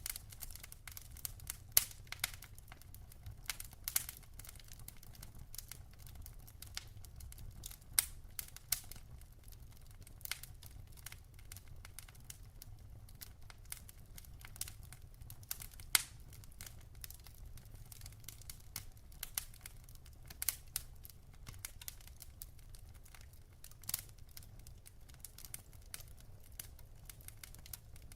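Burning logs in a fireplace crackling and popping: a constant scatter of small sharp crackles, with a louder pop every few seconds, over a low steady rumble.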